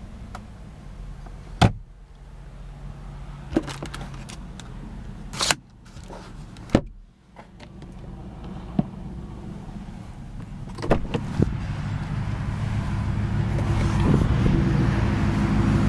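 Several sharp clicks and knocks, like interior trim and latches being handled, over a low steady rumble. Over the last few seconds a louder engine drone swells, typical of heavy traffic passing on a nearby highway.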